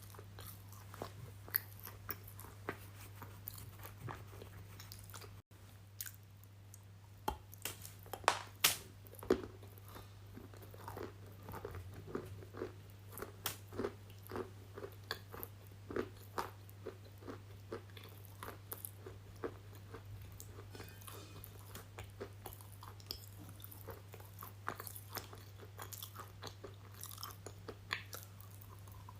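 Close-miked crunching bites and chewing of something hard and brittle, many sharp irregular crackles one after another, over a steady low hum.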